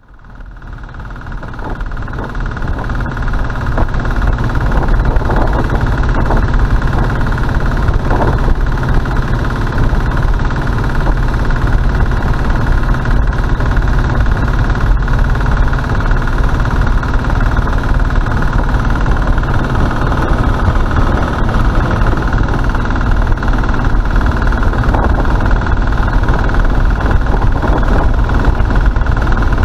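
Sommer Diesel motorcycle's single-cylinder diesel engine running steadily while riding at road speed. It fades in over the first few seconds.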